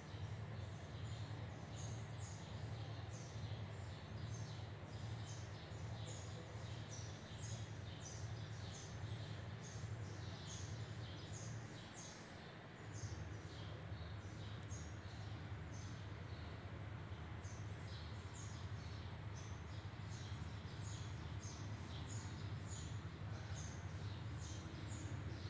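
Small birds chirping in the background, many short high chirps a few times a second, over a steady low hum that weakens for a moment midway.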